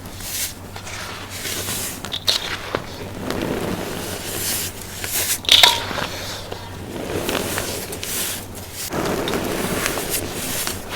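Dried, compacted baking soda being crushed and crumbled, a soft powdery crunching that swells and fades, with a few sharp cracks, the loudest a little over five seconds in.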